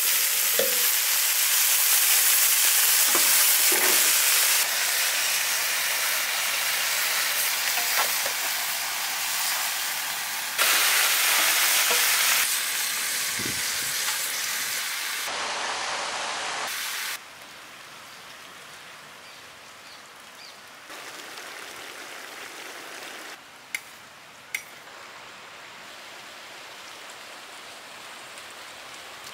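Squid and prawns frying in a large iron pan, sizzling loudly as a metal spatula stirs them. About seventeen seconds in it drops to a quieter sizzle, the pan now wet with the juices the seafood has let out, with two sharp clicks near the end.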